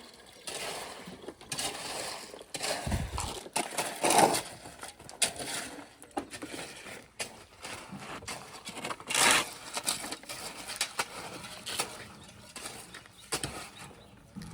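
Irregular scraping and knocking of masons' hand work with mortar and concrete blocks, with a dull thump about three seconds in.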